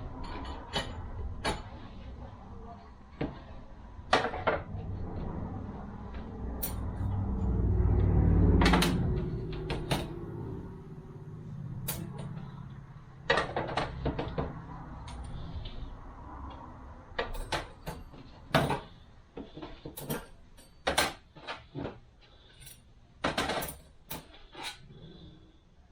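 Transmission clutch discs and steel plates being handled, with scattered light clicks and clinks of metal, irregular and unhurried. A low rumble swells and fades about a third of the way in.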